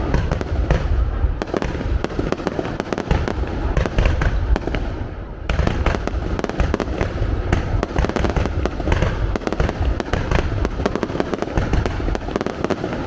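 Fireworks display: bangs and crackles in quick succession over a deep rumble, easing briefly about five seconds in and then picking up again.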